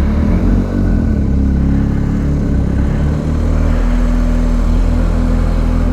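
Motorcycle engine running while riding, heard from the bike. Its pitch shifts, with brief dips in loudness about a second in and again about three seconds in.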